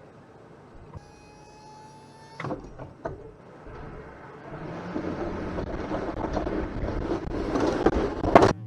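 A brief high steady tone and two knocks, then a vehicle engine running and growing louder, with a sharp knock near the end.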